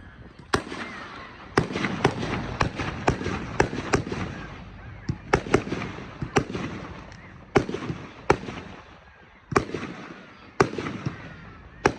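Aerial fireworks display: more than a dozen sharp shell bursts in a quick, irregular series, with a continuous crackling rumble between them.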